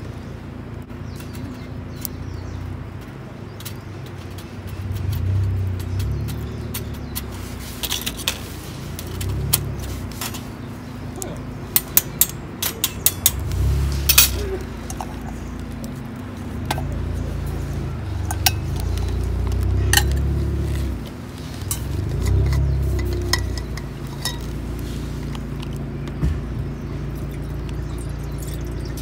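Metal camp cookware and gear clinking as it is handled, with a cluster of sharp clinks about twelve to fourteen seconds in, over a low rumble that swells and fades.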